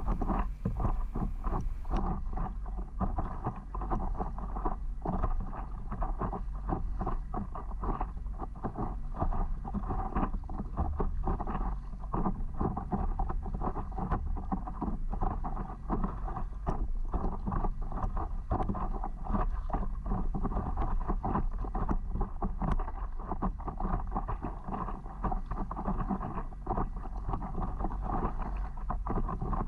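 Water splashing and lapping around a stand-up paddleboard, with wind rumbling on the microphone, a steady irregular crackling wash throughout.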